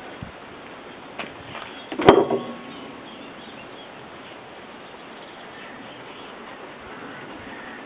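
A single sharp knock about two seconds in, with a couple of faint clicks just before it, over steady low background noise.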